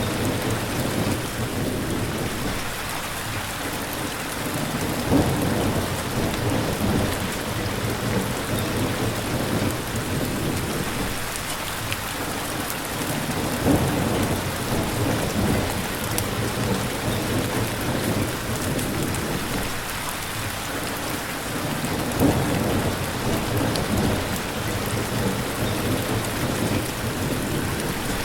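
Steady heavy rain falling, a dense even hiss, with low rumbling that swells and fades every few seconds and brief louder low thuds about 5, 14 and 22 seconds in.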